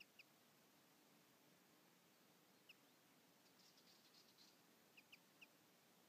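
Faint chirps of small birds: scattered short single calls, with a brief twittering run about halfway through.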